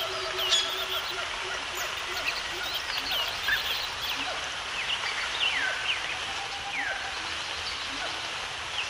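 A chorus of birds calling over a steady background hiss: many short chirps sliding sharply downward, several a second, with a few lower held notes among them.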